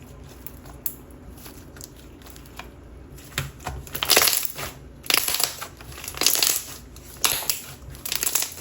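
Stiff gummy clear slime being pressed and worked, giving a series of loud, squelchy bubble pops and crackles in the second half. The owner thinks the slime may be slightly over-activated, which makes it resistant.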